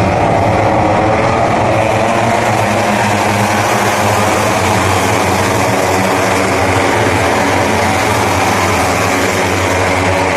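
Several racing motorcycle engines running together in a loud, steady drone of overlapping engine tones.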